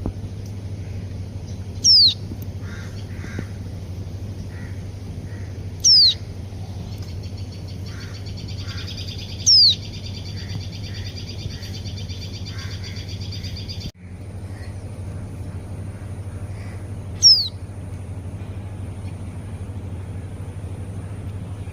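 Common nightingale singing: four loud, short whistles sliding down in pitch, several seconds apart, with a fast rattling trill in the middle and softer low notes between. A steady low hum runs underneath.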